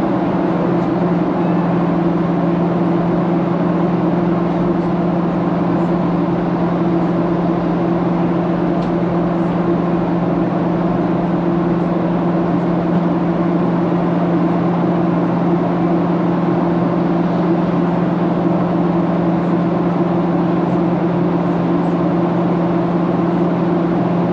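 Steady cabin noise of a Boeing 737-800 in flight: a constant rush of engine and airflow noise with a steady low drone.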